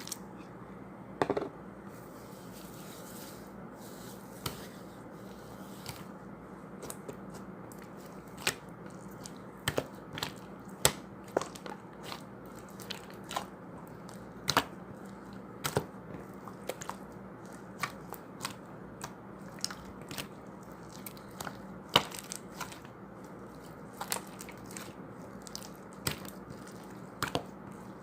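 Slime being squeezed and pressed by hand, giving scattered sharp pops and clicks at uneven spacing over a steady low hum.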